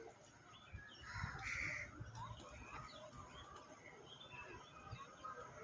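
Many birds calling and chirping at once, with one louder, harsher call a little over a second in.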